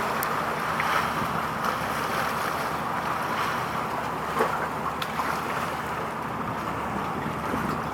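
Steady wind buffeting the microphone over the rush of sea water, with a faint low hum underneath.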